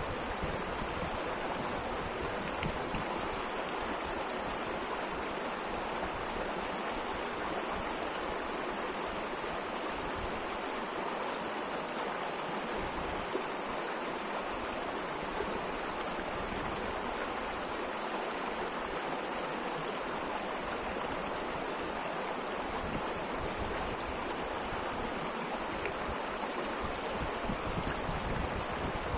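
Mountain river flowing steadily, an even rush of water with no breaks or changes.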